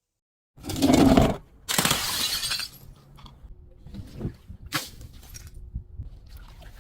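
Glass bottle being broken: two loud shattering crashes about a second apart, starting about half a second in, followed by scattered smaller crunches and clinks of glass pieces.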